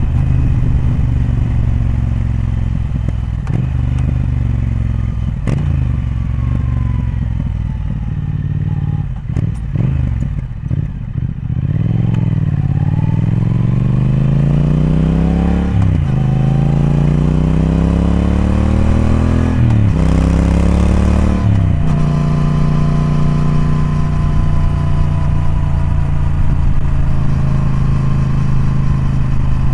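Triumph Speed Twin's parallel-twin engine under way. It runs steadily, the revs fall off about ten seconds in, then it pulls up through the gears: the pitch climbs, drops at a shift, climbs again, drops at a second shift and settles into a steady cruise.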